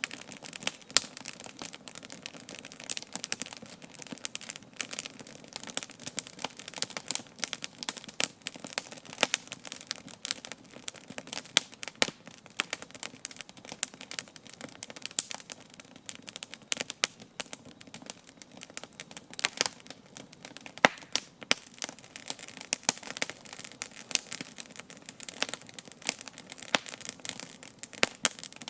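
Wood campfire crackling, with dense irregular snaps and pops, some louder than others.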